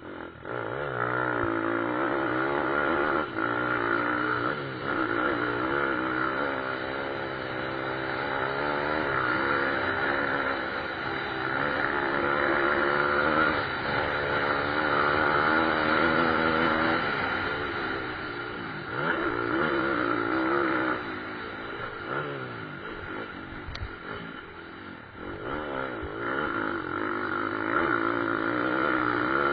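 Pit-bike motorcycle engines racing on a motocross track, their pitch rising and falling as the riders work the throttle and shift gears. The sound swells in about a second in and stays loud throughout.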